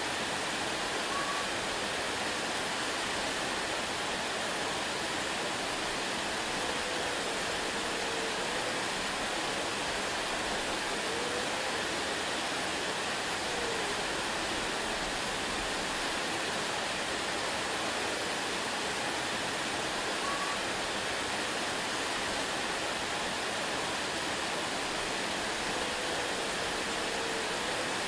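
Waterfall: water falling and splashing in a steady, unbroken rush. A few faint short whistles rise briefly above the rush here and there.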